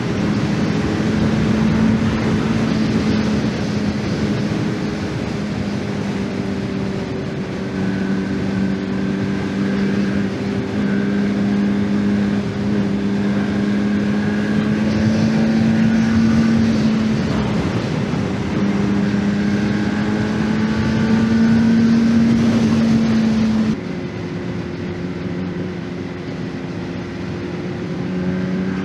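Honda CBR600RR's inline-four engine running under steady throttle, its note rising slowly, dipping about two-thirds of the way through, then rising again, with wind rushing over the microphone. About three-quarters through, the engine and wind noise drop sharply in level.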